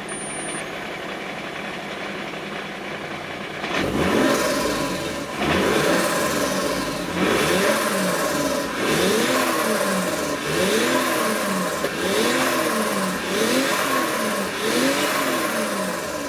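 Supercharged Toyota 2JZ-GE inline-six idling, then from about four seconds in revved in a run of quick throttle blips, each rising and falling in pitch, roughly one every second and a half.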